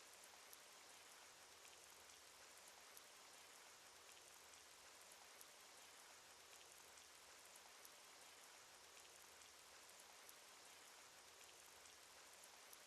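Rain sound effect: a faint, steady patter of rain with scattered small raindrop ticks.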